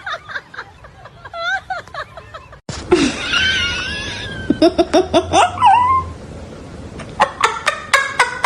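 People laughing in bursts of short rapid pulses, with brief voiced exclamations between.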